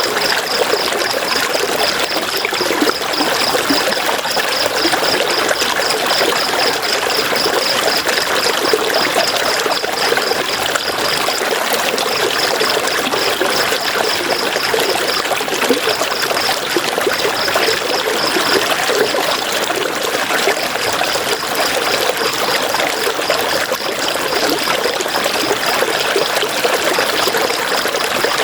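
River water flowing and splashing in a steady rush. A high, fast pulsing sound runs through the first two-thirds, breaking off a few times before it stops.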